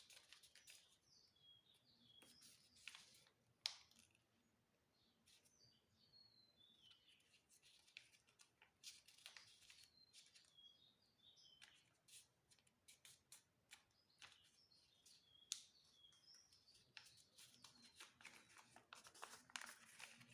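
Faint crinkling and creasing of paper being folded by hand, in short sharp crackles. A bird chirps repeatedly in the background.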